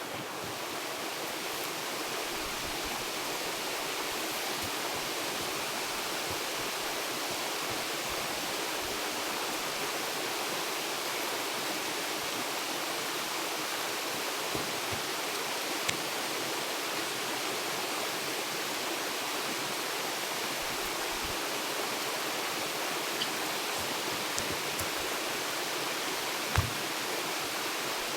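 Steady rush of flowing water, fading in at the start, with a few faint ticks and a single knock near the end.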